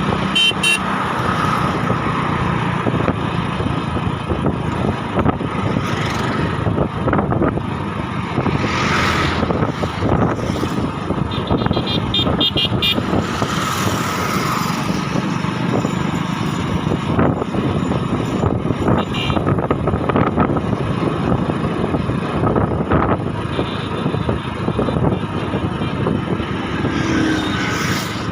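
Motor vehicle travelling along a hill road: steady engine and road noise throughout, with a few brief high ringing tones at the start, around the middle, and a little later.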